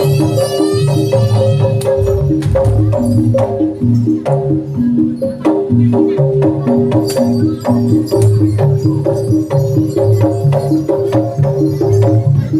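Traditional Javanese percussion ensemble playing for a Samboyo dance: a fast, repeating figure of short tuned gong-chime notes over a held ringing tone and low drum beats, with sharp struck accents.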